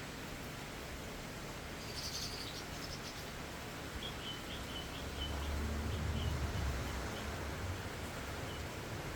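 Steady rain hiss, with a run of short high chirps from about four seconds in and a low rumble swelling in the middle.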